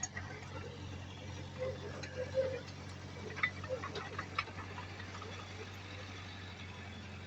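A heavy-equipment diesel engine running steadily at a low hum, with a quick series of sharp metallic clicks and knocks about halfway through.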